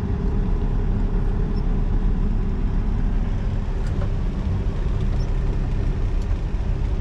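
Semi-truck's diesel engine idling steadily, a low even rumble with a faint held hum, heard from inside the cab.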